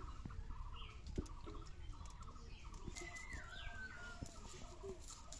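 Birds chirping and calling, with short falling whistles and busy background twittering, and a few soft knocks, the loudest about a second in.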